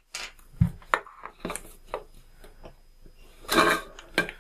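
An aluminium drink can handled on a tabletop: a low knock about half a second in, then scattered light clicks and scratches as a pen traces around a paper template on the can, and a short rustle near the end.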